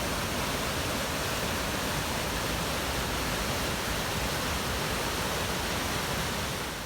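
Corra Linn waterfall on the River Clyde: a steady rush of falling water, easing slightly near the end.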